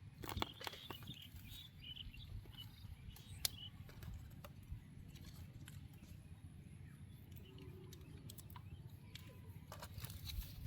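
Faint outdoor ambience: small bird chirps in the first few seconds over a low rumble, with scattered sharp clicks and taps, more of them at the start and near the end.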